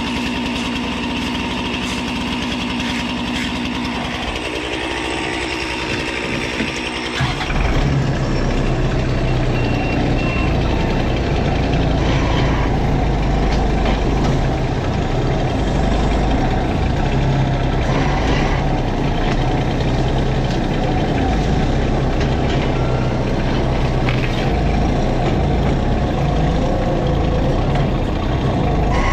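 Kubota M59 tractor-loader-backhoe's diesel engine running while it handles a log. About seven seconds in it picks up and runs louder and deeper, holding steady from then on.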